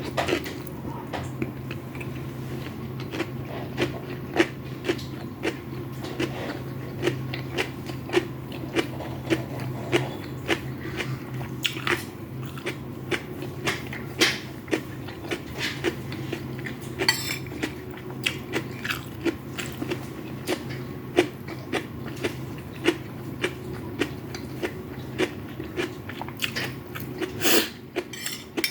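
Close-miked chewing and biting of fried rice with chicken and vegetables: wet mouth clicks and smacks, irregular at about one or two a second, over a steady low hum.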